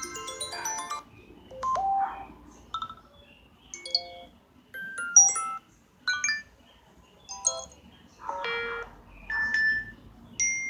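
iPhone SE alert tones played one after another: a string of short electronic chimes and blips, each a different tone, about one a second with short quiet gaps between.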